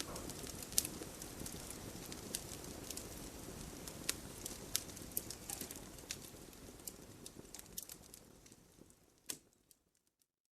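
Wood campfire crackling, with irregular sharp pops over a soft steady hiss. It fades out to silence near the end.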